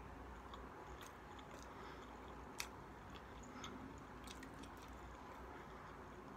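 Faint chewing of a mouthful of chicken burrito: soft wet mouth clicks and smacks, with one sharper click about two and a half seconds in.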